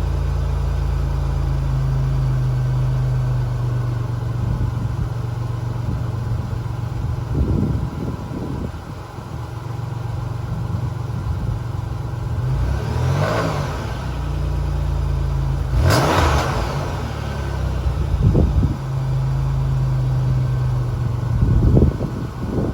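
Exhaust of a 1991 Oldsmobile Cutlass Supreme International idling steadily. A few short throttle blips rise and fall in pitch partway through, with a sudden sharp noise about two-thirds of the way in.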